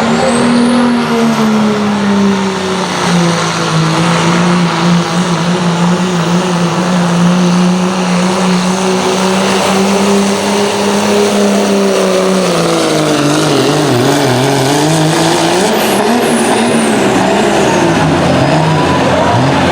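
Diesel pulling truck's engine running hard at high, steady revs under load, pulling the sled down the track. About two-thirds of the way through the revs fall and waver as the pull winds down.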